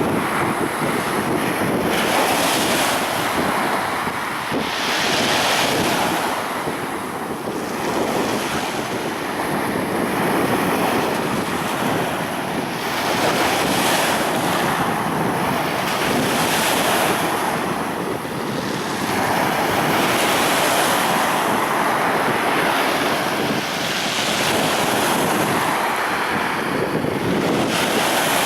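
Black Sea surf breaking on a beach, waves surging in and washing back in a slow, repeating rhythm of about one every three to four seconds.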